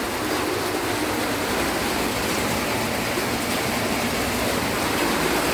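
Heavy rain pouring down steadily in a storm, an even, unbroken hiss.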